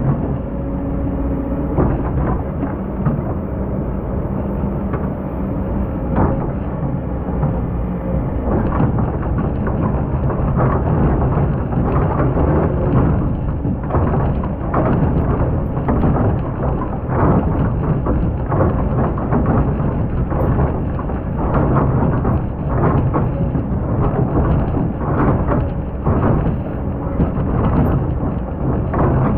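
Excavator's diesel engine running under load while its bucket digs and scrapes through hard, compacted sand, with frequent crunching and grinding strokes over a deep rumble.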